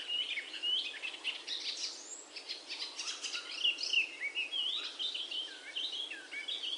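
Birds chirping and singing, with many short calls that rise and fall in pitch, over a steady hiss.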